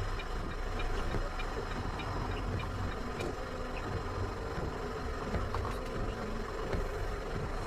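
Steady vehicle engine and road noise picked up by a dash cam, with a few faint ticks.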